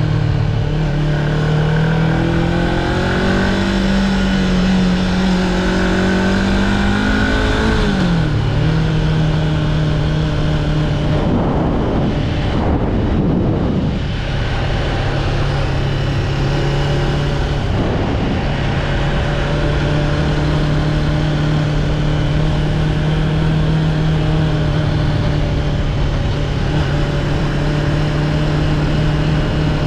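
Honda CB500X's 471 cc parallel-twin engine running on the road, its pitch rising and falling through the first eight seconds, dropping at about eight seconds, then holding steady. Around twelve to fourteen seconds in, and briefly near eighteen, a sound sweeps down in pitch, as from a passing vehicle.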